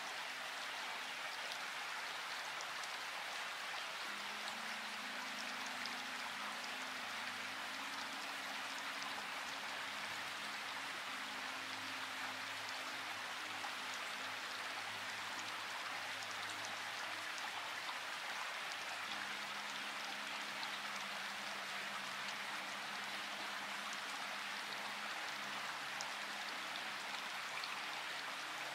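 Steady rain falling, an even hiss of dense drops with faint individual drop ticks. Underneath, faint low held notes shift pitch a few times.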